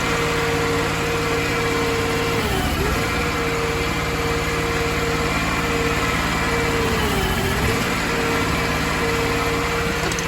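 Crawfish boat's engine running steadily, its pitch sagging briefly twice, about two and a half seconds in and again about seven and a half seconds in.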